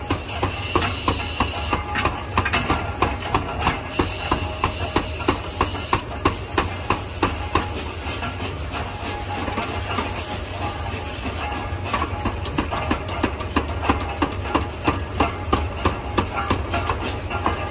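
Forging hammer striking metal in a steady run of blows, about three a second, over the low hum of shop machinery. A hiss runs under the blows for the first several seconds.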